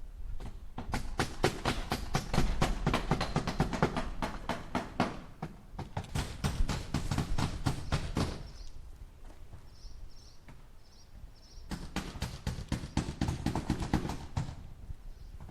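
Hammer driving nails into wood in quick, steady strikes, several a second. One long run of strikes breaks off about eight seconds in, and a shorter run starts a few seconds later.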